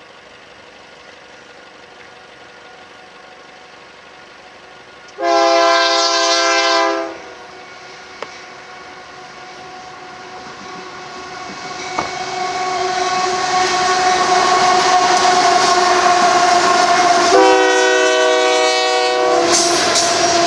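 Union Pacific diesel locomotives at the head of a coal train sound their air horn in two long blasts, one about five seconds in and one about seventeen seconds in. Between them the rumble of the diesels grows louder as the train comes close. Near the end the coal cars roll past with wheel clatter.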